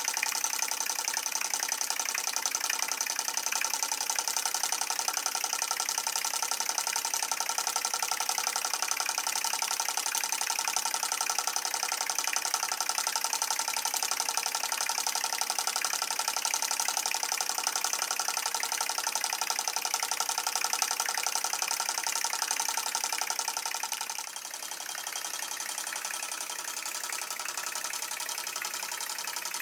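TTB V2 model stationary steam engine running fast and steady on live steam, a rapid even beat with a constant hiss and whine. About 24 seconds in it becomes a little quieter.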